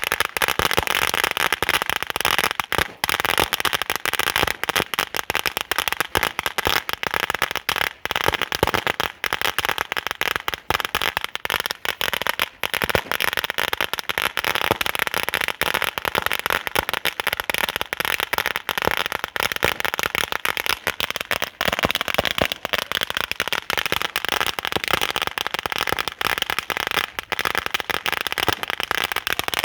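A roll of 20,000 firecrackers going off in a dense, unbroken chain of rapid cracks and pops.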